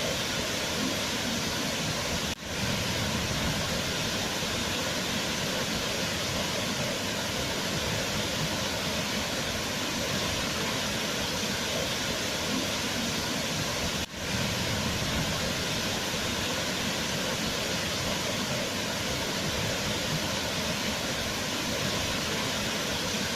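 Waterfall rushing steadily. The sound drops out for a split second twice, about two seconds in and again about fourteen seconds in.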